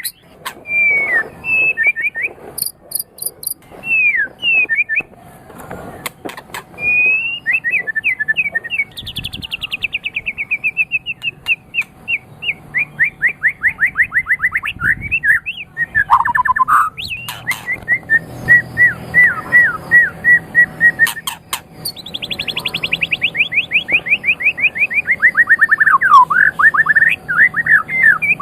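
White-rumped shama singing a varied song: short whistled phrases and long runs of rapid repeated notes, with a few sharp clicks among them.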